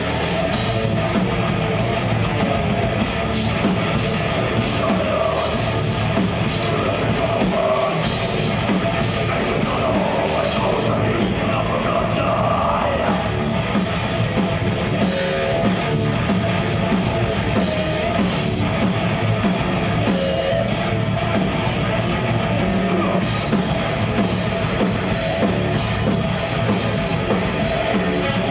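Progressive death metal band playing live: distorted electric guitars and a drum kit, loud and continuous without a break.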